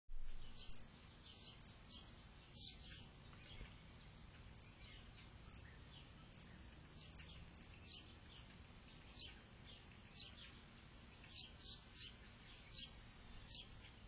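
Small birds chirping faintly, short high notes scattered irregularly throughout, over a steady low background rumble. A brief thump right at the start is the loudest moment.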